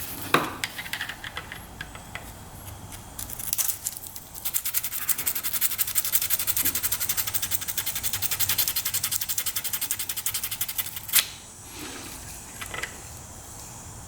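Sandpaper rubbing quickly back and forth between a motorcycle's ignition contact points, about six scratchy strokes a second for several seconds, to clean the dirty, corroded points. A sharp click near the end.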